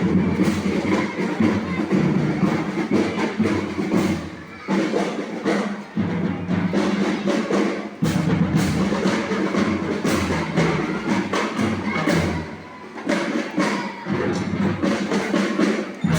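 Marching band playing: drums beating under a melody, with short breaks between phrases.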